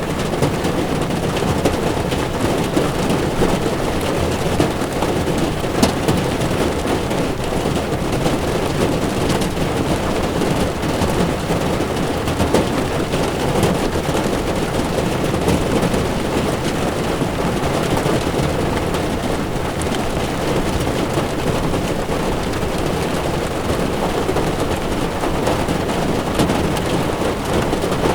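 Heavy rain on a moving car's windshield and body, mixed with tyres running on a wet road, heard from inside the car as a steady, dense rushing with a low rumble. A single sharp tick sounds about six seconds in.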